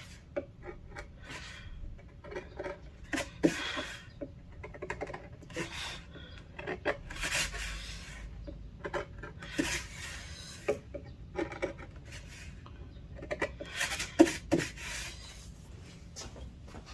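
Flat carving chisel scraping and paring the bark off a piece of zelkova wood: irregular short scraping strokes, with a few sharp knocks of the blade, the loudest a little after fourteen seconds in.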